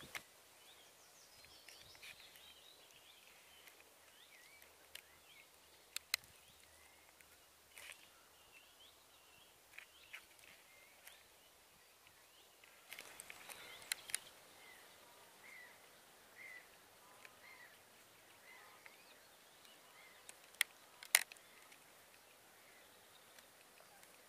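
Faint birdsong of short high chirps and warbles throughout, over a low background hiss, broken by a few sharp clicks and a brief rustle about halfway through.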